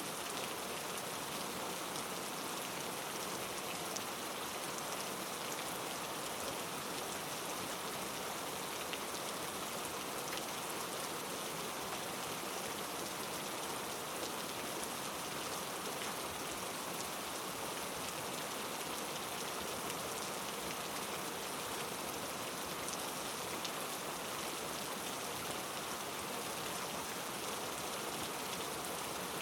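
Heavy rain falling on rainforest foliage: a steady, even hiss of rain with scattered individual drops ticking through it.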